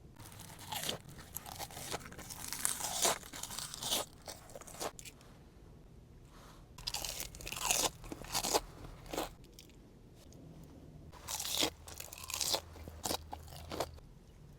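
A person biting and chewing sushi with crunchy, crackly mouth sounds, in three bouts separated by short pauses.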